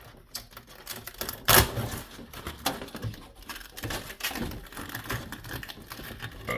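Skateboard griptape being peeled off the wooden deck by hand: a dense, irregular crackle of the sanded tape's adhesive tearing away, with its loudest rip about a second and a half in.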